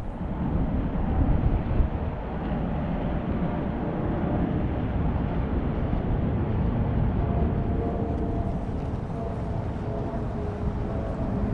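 Steady low outdoor rumble, with a faint engine drone joining about seven or eight seconds in.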